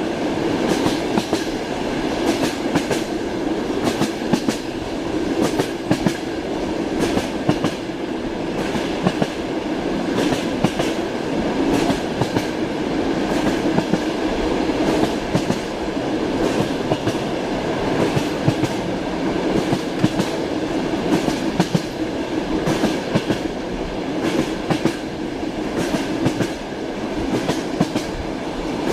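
Passenger train wheels clacking over the rail joints in irregular runs of sharp knocks, over a steady rolling rumble, heard from inside the carriage.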